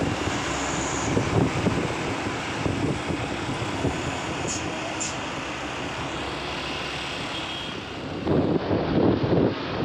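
Heavy truck's engine and road traffic noise, steady throughout, with gusts of wind buffeting the microphone in the last second and a half.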